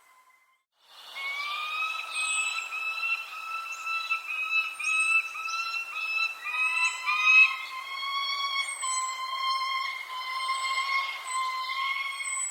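Birds calling: a continuous whistling tone made of short repeated rising notes, with brief high chirps every second or so. It starts after about a second of silence.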